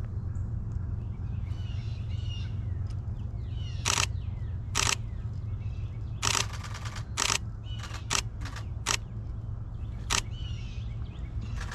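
DSLR camera shutter firing: separate clicks spread through the middle of the clip, with a short rapid burst about halfway through. Faint bird chirps and a steady low rumble lie behind.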